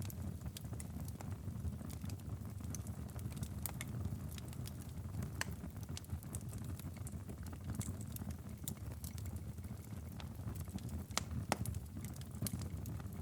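Wood fire crackling in a fireplace: irregular sharp pops and clicks over a low steady rumble, with one louder pop about eleven seconds in.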